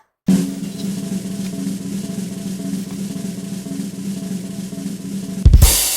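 Drum roll lasting about five seconds, ending in a sudden crash with a deep bass-drum thump and a cymbal ringing out.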